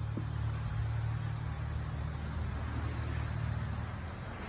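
Trane XR13 outdoor condensing unit winding down just after it cycled off: its two-bladed condenser fan coasts toward a stop, with a low hum slowly fading.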